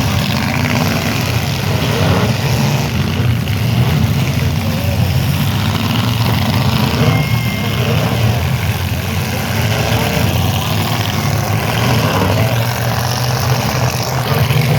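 Demolition derby car engines running loudly and steadily, with faint voices from the crowd over them.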